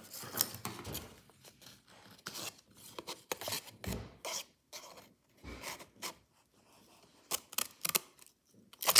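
Scissors snipping a sheet of paper: a string of short, irregular snips and paper rustling, with a quick run of crisp clicks near the end.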